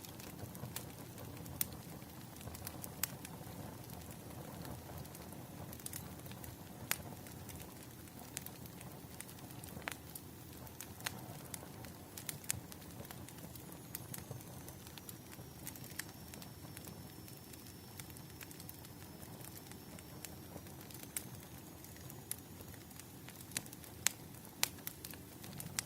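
Wood fire crackling, with irregular sharp pops and snaps over a steady low rush.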